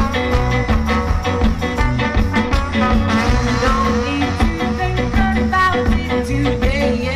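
A live band playing, with a steady drum beat and a bass line under it.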